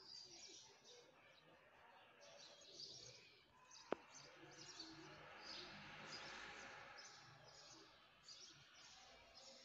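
Near silence with faint chirping of birds in the background and one sharp click about four seconds in.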